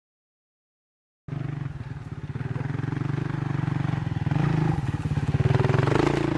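Rally motorcycle engine running hard with a fast, even firing pulse, cutting in abruptly after about a second of silence.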